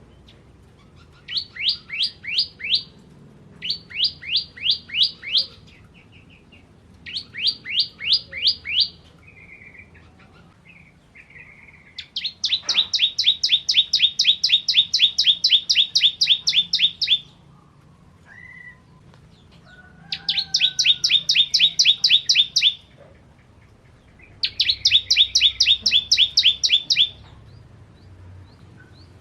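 Ciblek kristal (a prinia) singing: short bursts of about five sharp, high, rapidly repeated notes, then three longer fast rattling trills of many notes, with a few soft chirps in between.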